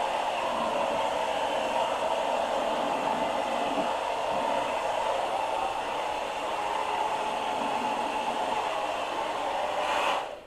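Hand-held blow dryer running steadily on its cool setting, blowing poured acrylic paint out across the canvas; it is switched off near the end.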